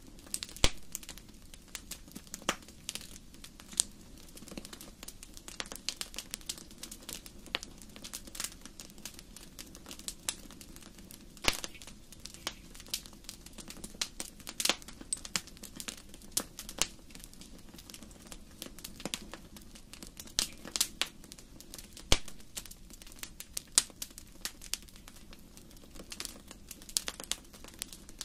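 Wood fire crackling in a fireplace: irregular sharp pops and snaps over a low steady hiss of the burning logs.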